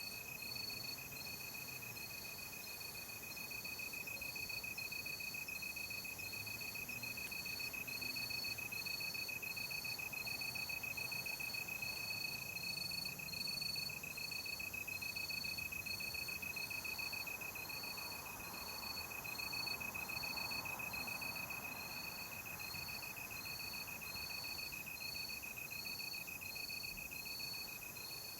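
Crickets at night: one insect holds a steady high-pitched trill while another chirps over it at an even pace, about three chirps every two seconds.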